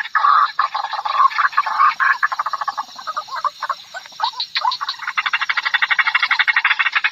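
White-breasted waterhen calling: a run of harsh croaking notes that breaks into fast pulsed chatter in the middle, then into a steady rapid series of pulses over the last two seconds.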